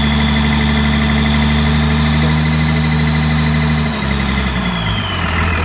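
Yamaha 450-horsepower V8 marine engine running steadily with a high whine over its note. About four seconds in its note drops, and near the end the whine falls in pitch as the revs come down.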